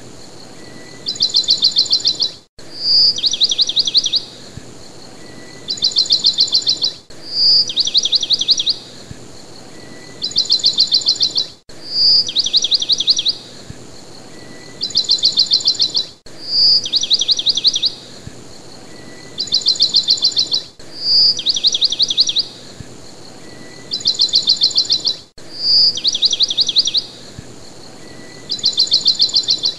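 Recorded birdsong played as a loop, the same phrase repeating about every four and a half seconds: a single clear whistled note, then a fast trill of chirps, a short pause and a second trill.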